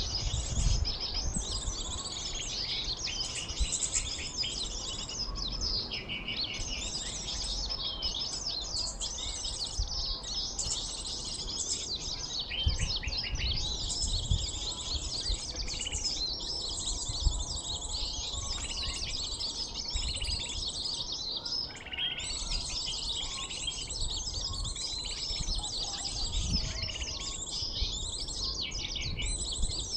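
Dense, unbroken high chirping and twittering of small birds from a lure recording played to attract sunbirds, with a faint low rumble underneath.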